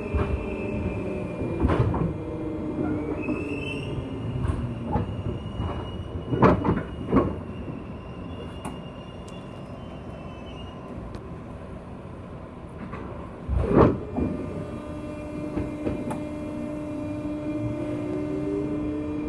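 Interior running sound of a JR West 201 series chopper-controlled electric train's motor car. The motor tones fall as the train slows, a high wheel squeal holds for several seconds, and a few heavy clunks sound from the wheels. Near the end the motor tone rises again as the train powers up.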